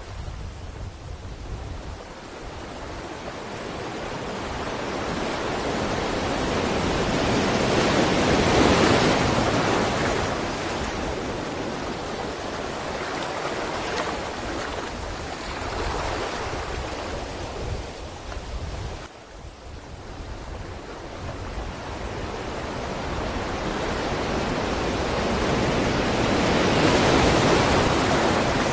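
Sea waves breaking and washing up a shore, with no other sounds. The surf swells to a peak about eight seconds in and again near the end, with a sudden brief dip in between.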